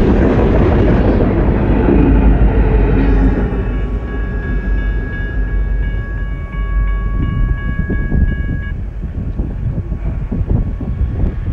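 BNSF coal train cars rolling past over the grade crossing, steel wheels on rail, dying away after about four seconds as the train clears. Then a steady high ringing from the crossing signal bell cuts off suddenly about nine seconds in, with wind buffeting the microphone near the end.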